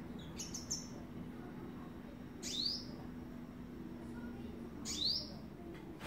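Sunbird calls: a quick cluster of high chirps near the start, then two short rising calls about two and a half seconds apart.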